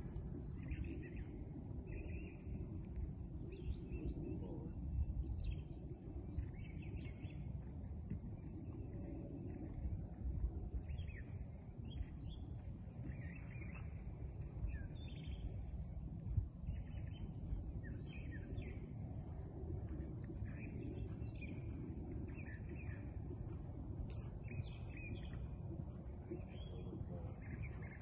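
Small birds chirping and calling over and over, short notes with quick upward flicks, over a steady low rumble of outdoor noise.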